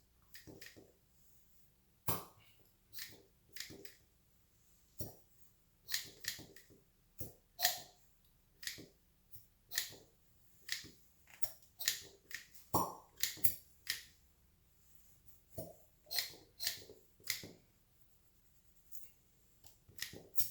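Small plastic suction cup worked over olive-oiled skin, sticking and pulling free again and again: a string of short wet pops and smacks, irregular at about one or two a second.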